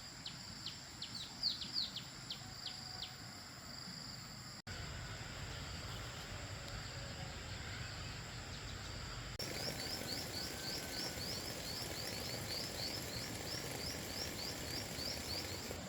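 Birds chirping over a steady background hiss: a scatter of sharp downward chirps, then, after two abrupt cuts, a fast run of repeated chirps at about five a second.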